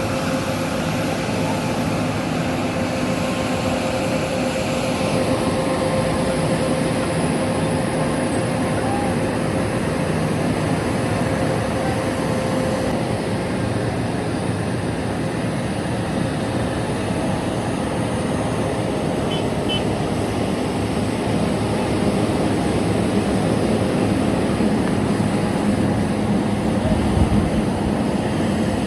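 Heavy truck engines running steadily together, a dense continuous noise with a low engine hum underneath, growing a little louder near the end.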